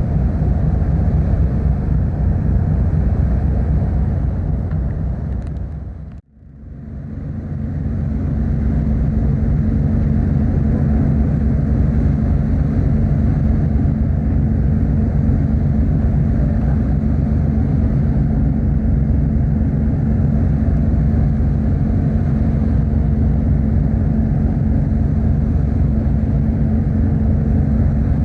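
Steady low drone of a car ferry's engines heard on board, with a few held low tones. It fades out to near silence about six seconds in and then fades back up to the same drone.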